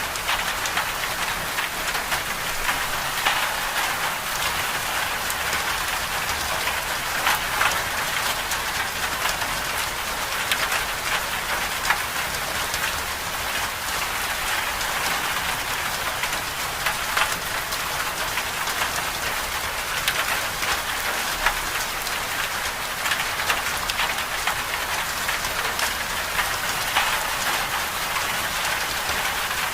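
Winter-storm ambience: a steady, dense patter of precipitation on a surface, a constant hiss sprinkled with many small drop ticks.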